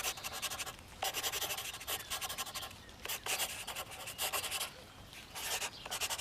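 Marker pen drawn over paper in a series of strokes, each lasting about a second, with short breaks between them.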